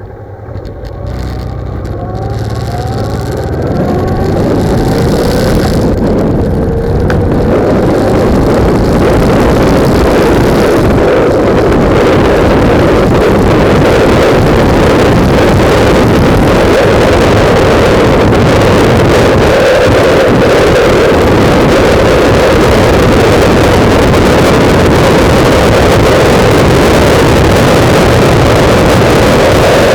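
Motorcycle accelerating, its engine note rising over the first few seconds. Then heavy wind noise buffeting the bike-mounted camera's microphone at road speed, loud and steady, swamps the engine.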